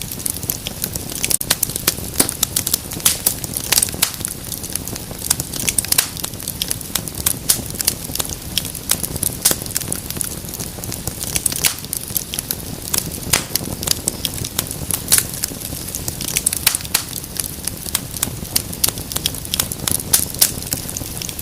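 Wood fire crackling in a fireplace: dense, irregular sharp pops and snaps over a steady low rumble of flames.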